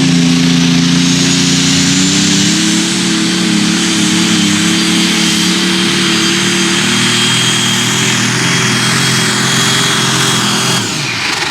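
Turbocharged super stock pulling tractor engine running hard at high revs, with a high, steady turbocharger whistle over it. The engine note climbs slightly early on, then the engine and the whistle drop off suddenly near the end as the throttle is closed.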